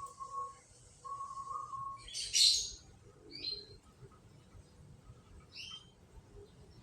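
Canaries chirping: a loud burst of song a little after two seconds in, then a few short, separate chirps. A steady held tone sounds in the first two seconds.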